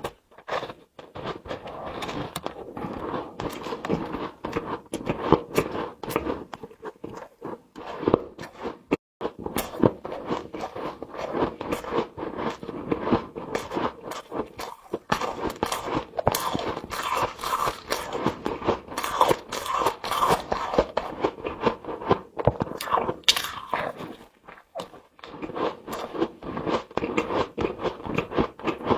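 Close-up biting and chewing of frost: dense, irregular crunching with brief pauses about a third of the way in and again near the end.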